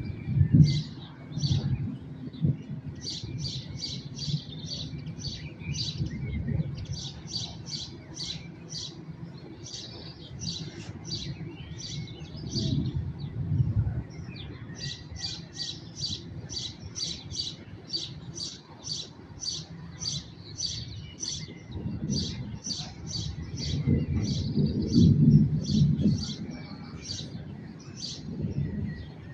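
A songbird repeating a short, high chirp about three times a second in long runs, over low rolling thunder that swells and fades several times, loudest near the start and about three-quarters of the way through.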